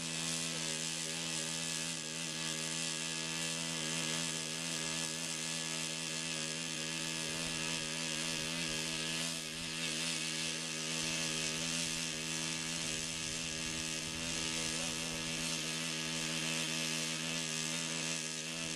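Control-line model airplane engine running steadily at constant speed, a high buzzing tone that holds one pitch throughout.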